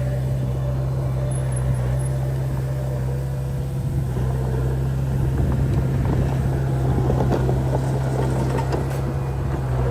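Diesel engine of earthmoving machinery running steadily with a low drone. From about four seconds in, rapid metallic rattling and clanking join it.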